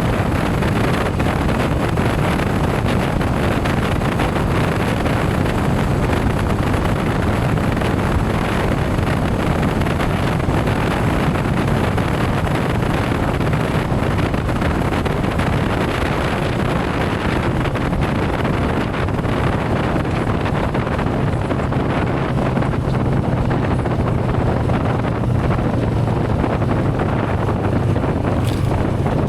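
Motorcycle riding at speed: wind rushing over the microphone over the steady hum of the engine, whose note grows a little stronger about two-thirds of the way through.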